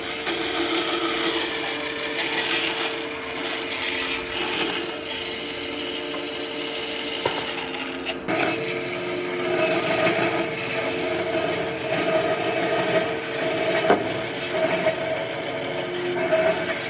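A power tool running on wood with a steady motor hum, broken briefly a little past halfway.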